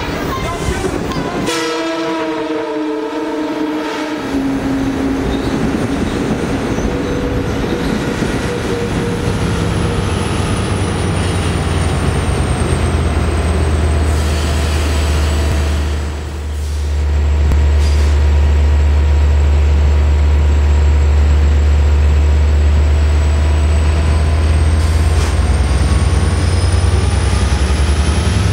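Long Island Rail Road train arriving at a station platform. The horn sounds in the first few seconds, then the bi-level coaches roll past with wheel noise on the rails. The DE30AC diesel locomotive's deep steady drone builds and dominates the second half, with a faint whine that falls in pitch and rises again near the end.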